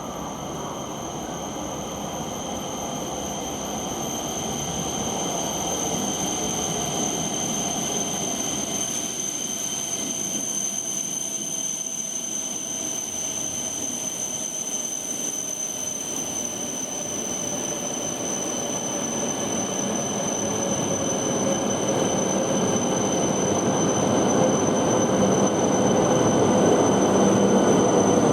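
A 10-car Tohoku Shinkansen train pulling into the platform and braking, its rumble growing louder throughout. A motor whine falls slowly in pitch as the train slows.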